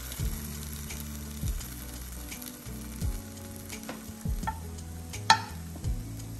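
Vegetables sizzling in a hot pan, with a wooden spoon knocking against the cookware now and then, the loudest knock about five seconds in.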